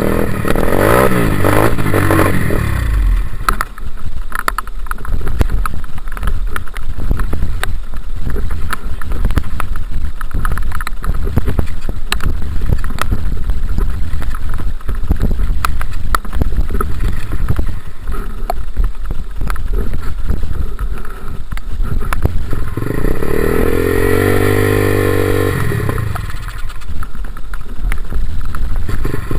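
Dirt bike engine revving up and down, briefly at the start and again for a few seconds near the end. In between there is a rough rumble with many sharp knocks and clatters, and the engine note is faint.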